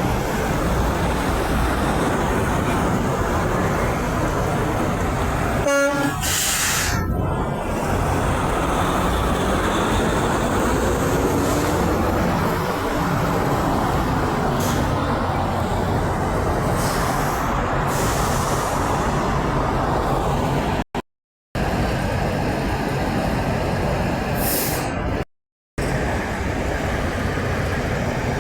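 Steady road traffic with heavy trucks passing, and a short semi-truck air horn toot about six seconds in. The sound drops out briefly twice near the end.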